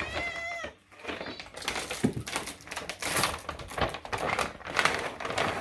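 A cat ends a short meow, then a rapid, uneven clatter of clicks and scratches goes on for several seconds.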